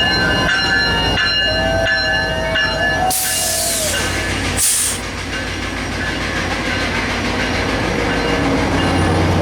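Passenger train running by, a steady rumble with thin whining tones and two short bursts of loud hiss, about three and four and a half seconds in.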